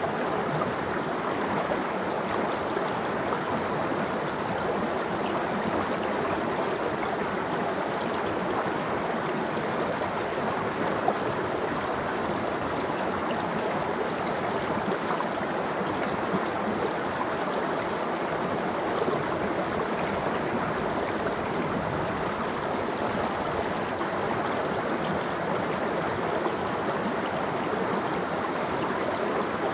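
Valley stream water flowing, a steady, even rush of running water with light gurgling.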